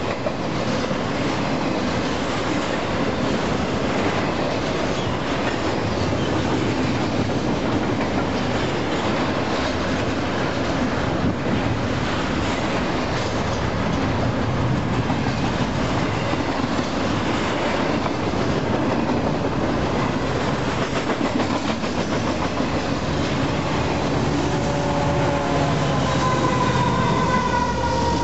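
Union Pacific double-stack intermodal freight train passing close by, its container cars' wheels making a steady rumble and clatter on the rails. Near the end, the diesel-electric locomotives at the rear of the train come past, adding the hum of their engines.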